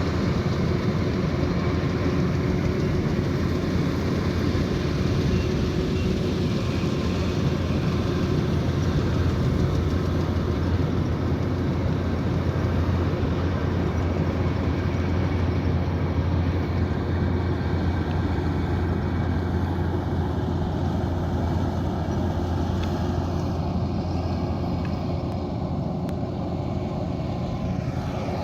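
Kubota DC108X combine harvester running steadily under load, its diesel engine droning with the even rushing noise of the cutting and threshing machinery. The sound eases slightly in the last few seconds.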